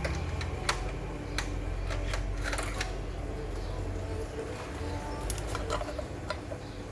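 Irregular light clicks and taps over a low, steady hum.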